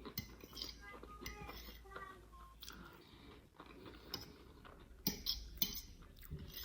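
Quiet chewing of a mouthful of macaroni with sardines, with small wet mouth clicks and a few sharper clicks about five seconds in.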